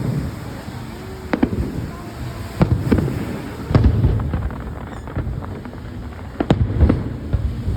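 Aerial fireworks shells bursting, a run of sharp bangs at irregular intervals over a low rumble, the loudest coming in clusters about a third of the way in and near the end.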